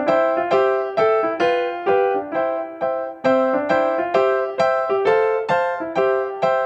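Background music: an electric-piano or keyboard melody of plucky notes struck about three a second, each fading quickly.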